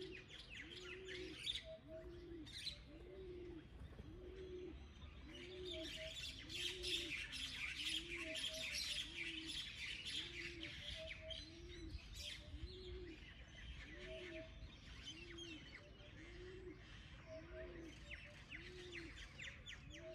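Outdoor birdsong: a low cooing note repeated steadily about once a second, with small birds chirping and twittering over it, busiest in the middle.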